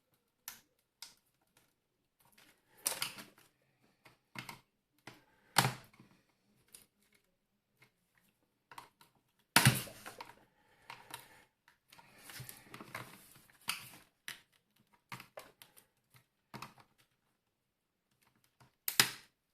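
Irregular clicks and knocks of hard plastic and metal parts of a Tefal steam iron being handled and pried at during disassembly, with a stretch of scraping about twelve seconds in.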